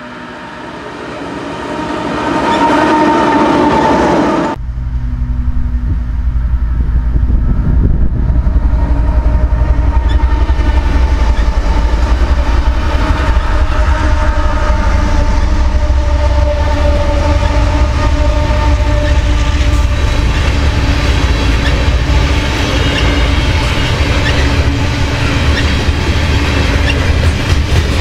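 A freight train led by four GE Evolution-series locomotives (ES44AC and ET44AC, V12 diesels) approaching and sounding its horn. About four seconds in, the sound switches abruptly to a loud, deep diesel rumble as the locomotives pass close. Loaded freight cars then roll by with a rhythmic clatter of wheels over the rail joints.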